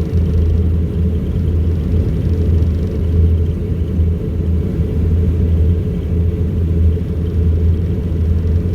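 Steady drone of an Embraer EMB-120 Brasilia's two turboprop engines and propellers, heard inside the passenger cabin as a loud, deep rumble that holds even throughout.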